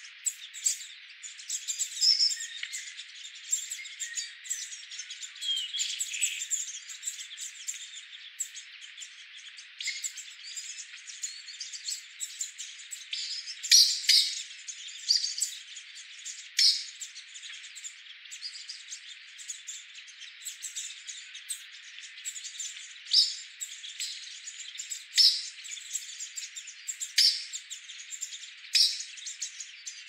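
Wild birds chirping over a steady high hiss, with short, sharp calls repeating every second or two through the second half. The recording has no low end at all, so it sounds thin.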